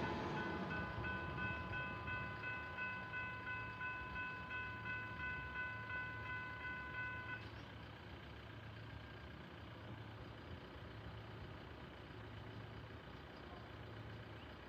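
Level crossing electronic warning bell ringing in quick, even pulses, still sounding just after a train has passed. It stops about seven seconds in, leaving a low background hum of road traffic.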